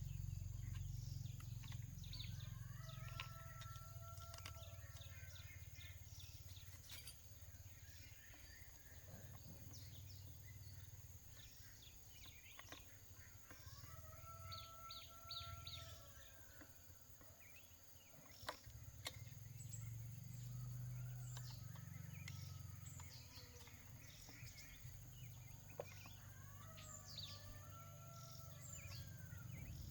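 Faint outdoor ambience: a bird gives a long, level call three times, about twelve seconds apart, among scattered short high chirps, over a low steady rumble.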